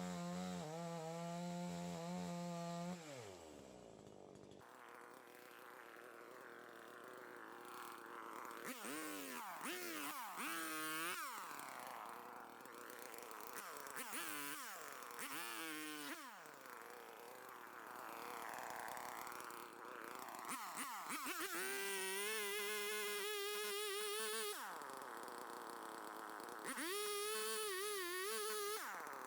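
Two-stroke chainsaw running. Its pitch drops about three seconds in, then it is revved up and down again and again, with two longer spells held at high revs near the end, as when bucking logs.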